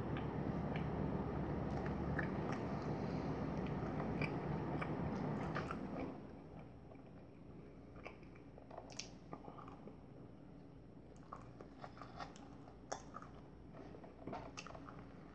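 Close-up chewing and biting of a bagel with cream cheese: scattered wet mouth clicks and small crunches. A steady low rushing noise is the loudest thing for the first six seconds, then cuts off suddenly.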